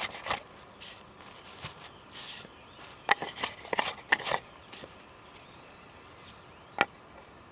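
Scattered sharp knocks and cracks of wood being handled at a campsite: a couple at the start, a quick cluster of five or so about three to four seconds in, and one more near the end.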